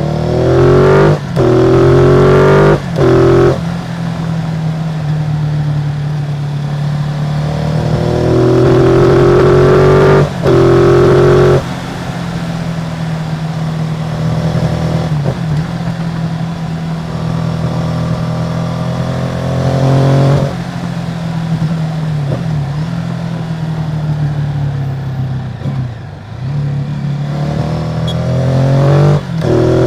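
Ducati Multistrada 950's 937 cc Testastretta L-twin running through its stock exhaust while riding. The engine runs steadily, with several bursts of acceleration near the start, around a third of the way in, around two-thirds of the way in and near the end, where the pitch rises and is cut by brief breaks at upshifts.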